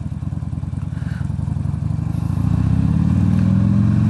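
Motorcycle engine running on the move. From about halfway the revs climb and the engine grows louder as it accelerates.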